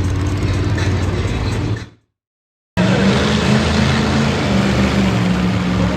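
Monster truck engine running loud and steady. About two seconds in it fades out to dead silence for under a second, then cuts back in suddenly, running at a steady pitch.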